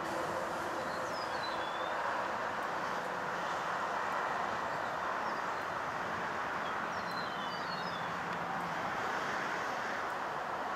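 Steady outdoor rushing noise with a few short bird chirps, a couple about a second in and a small cluster around seven to eight seconds in.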